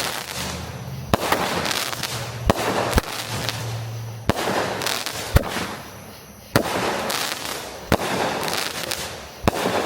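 A consumer firework cake firing off its shots: about eight sharp bangs roughly every second or so, each followed by a trailing crackle.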